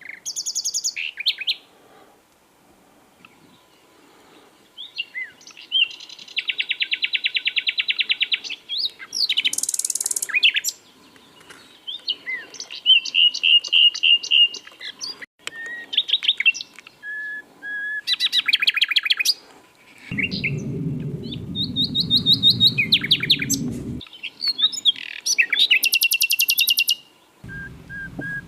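Common nightingale singing: a run of varied phrases of rapid trills, fast repeated notes and short whistles, with brief pauses between them. A low rumbling noise sits underneath for a few seconds after the middle and again near the end.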